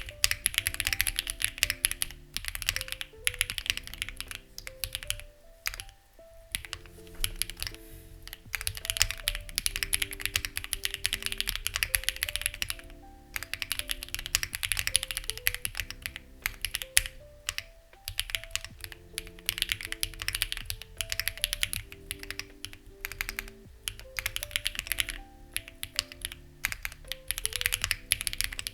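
Fast typing on a Lucky65 v2 mechanical keyboard with stock, unlubricated HMX Ziwei switches, in runs of rapid key clicks broken by short pauses. Soft background music with held notes plays underneath.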